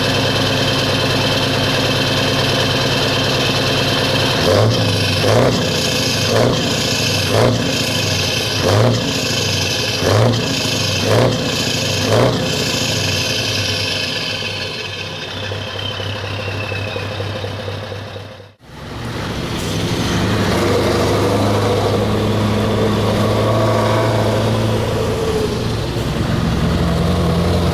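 Scania 4-series truck's V8 diesel idling, then revved in about eight short blips roughly a second apart. As it settles back, a high whine slowly falls in pitch, and after a brief dropout the engine idles steadily again.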